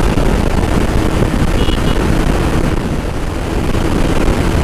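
Motorcycle riding at speed, heard mostly as steady wind buffeting on the microphone over engine and road noise. Two brief high beeps come about a second and a half in.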